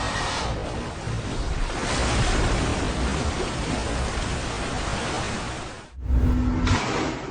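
Loud, steady rush of wind and surging water with no distinct events. It cuts off abruptly about six seconds in and is followed by a louder low rumble with a steady hum.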